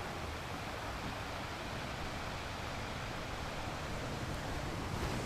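Steady rushing noise of sea surf and wind, with no distinct breaking wave.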